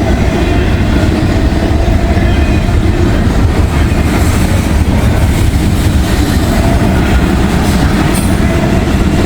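Long freight train passing close by: a steady, loud rumble of railcar wheels on the rails.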